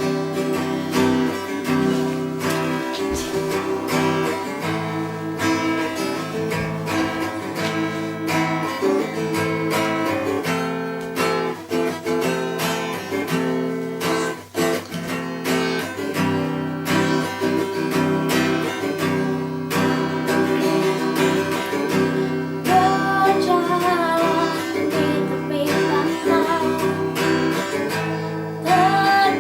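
Acoustic guitar strummed steadily, and a singing voice comes in about two-thirds of the way through.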